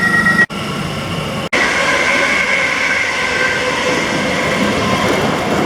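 Elizabeth line Class 345 electric train running, a steady rumble with a high-pitched whine. The sound drops out abruptly twice, about half a second and a second and a half in.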